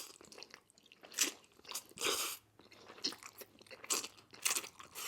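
Close-miked eating: a person chewing and biting, with short irregular mouth sounds, the strongest about a second in, two seconds in and near the end.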